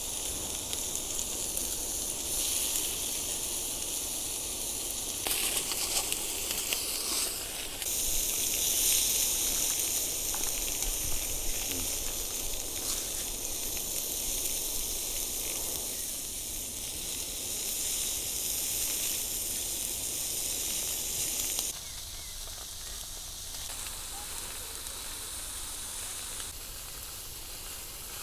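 Food sizzling over heat: a steady high hiss with a few faint pops. It grows louder suddenly about eight seconds in and drops abruptly a few seconds before the end.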